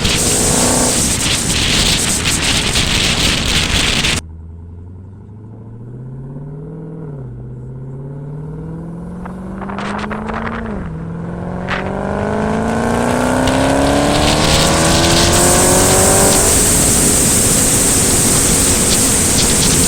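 Dodge Hellcat's supercharged V8 through an aftermarket cat-back exhaust: loud rushing wind and road noise at first, then about four seconds in a cut to the engine idling low, two quick revs, and a long hard pull with the pitch climbing steadily for about five seconds. The loud rushing noise returns near the end.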